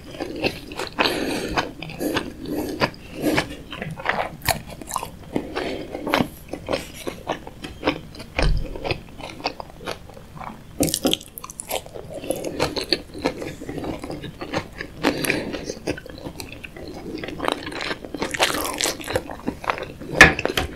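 Close-miked chewing of tuna nigiri sushi: soft, wet mouth sounds of rice and raw fish being chewed, with a fresh bite taken about halfway through.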